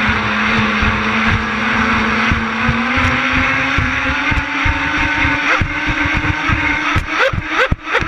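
Twin 5200kv brushless motors of a Genesis 72 RC catamaran speedboat whining at a steady pitch that slowly climbs, with frequent low thumps throughout. Near the end the pitch jumps in several quick rising bursts.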